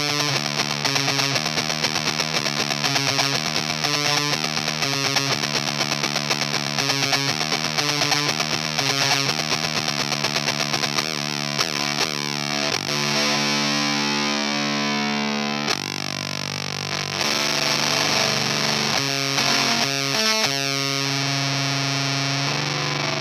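Baritone electric guitar through an EarthQuaker Devices Erupter fuzz pedal set at about half, playing a heavily distorted rhythmic riff. About halfway through it gives way to held, sliding notes, then the riff comes back.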